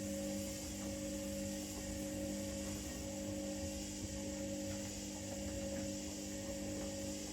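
Front-loading washing machines running mid-cycle: a steady motor hum with fixed tones and no rise or fall in pitch.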